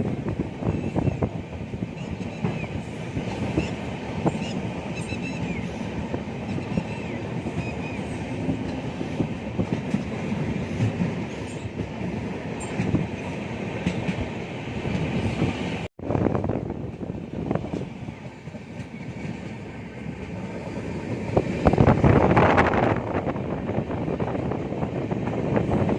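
Passenger train running along the track, heard from on board: a steady rumble of wheels with clickety-clack over the rail joints. It cuts out abruptly for an instant about two-thirds of the way through, and near the end it swells into a louder rush for a couple of seconds.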